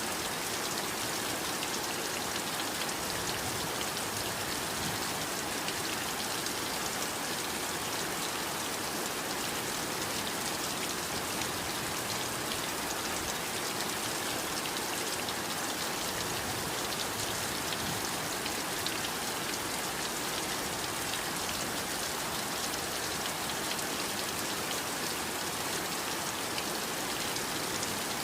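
Steady heavy rain falling, a dense even hiss of drops with fine patter from individual drops hitting a surface.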